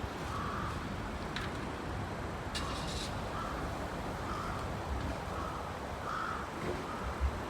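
A bird calling over and over in short cawing calls about a second apart, over a steady low background rumble.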